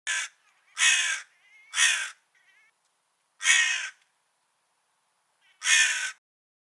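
Crow cawing: five harsh caws over about six seconds, the first short and the rest longer, with gaps between them.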